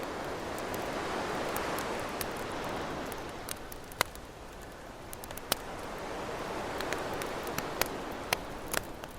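Ocean waves washing in, swelling twice, over a campfire crackling with a handful of sharp pops in the second half.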